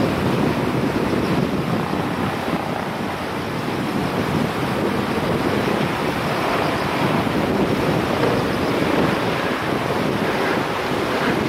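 Steady rushing noise of a river in typhoon flood, mixed with wind buffeting the microphone.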